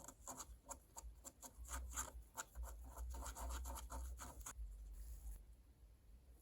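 Quick, even rubbing strokes of an abrasive worked by hand, about four a second, which stop about four and a half seconds in.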